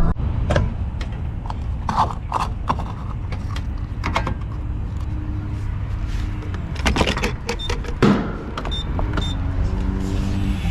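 Truck cabin on the move: steady low road and engine rumble, with scattered clicks, knocks and rattles.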